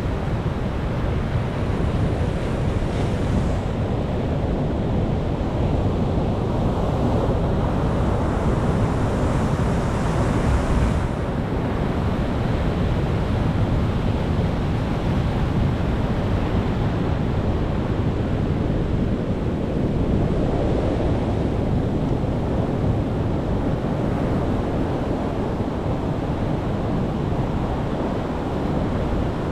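Ocean waves breaking and washing ashore: a continuous rushing surf with a deep low rumble. A wave swells into a brighter hiss from about three seconds in and breaks off sharply around eleven seconds, and a smaller one swells near twenty seconds.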